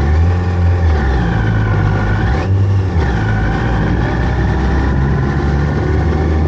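Sport motorcycle engine running, its note shifting up and down, with a brief drop about two and a half seconds in.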